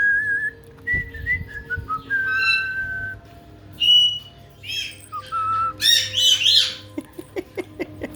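Pet caique (parrot) whistling clear single notes, some held steady and some gliding. About six seconds in it gives a burst of harsh, chattering squawks, followed by a quick run of short clicks.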